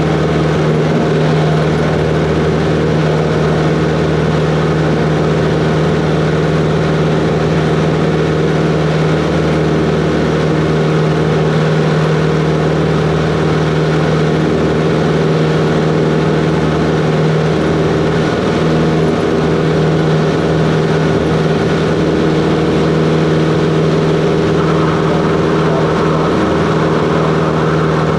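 Cessna 140's piston engine and propeller running steadily, a loud even drone with no change in pitch.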